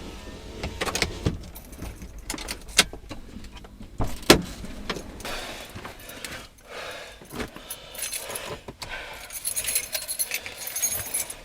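Keys jangling with a run of sharp clicks and rattles inside a car's cabin.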